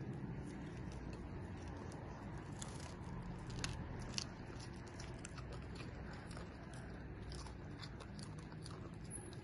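A dog biting and chewing crunchy food, with irregular crisp crunches throughout and two sharper ones near the middle.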